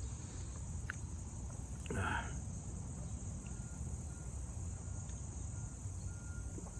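Steady high-pitched insect chorus, with a low rumble underneath and a brief breath or vocal sound about two seconds in.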